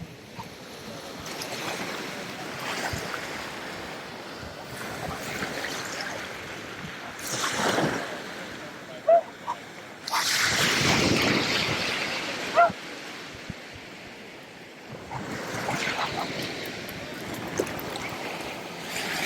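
Small waves breaking and washing up the shore, swelling loudest twice in the middle, over a steady wash of surf and some wind. A couple of brief sharp sounds stand out between the waves.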